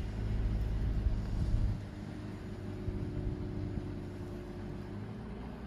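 Engine of heavy road-paving machinery running steadily. Its low rumble drops back a little under two seconds in, leaving a quieter steady hum.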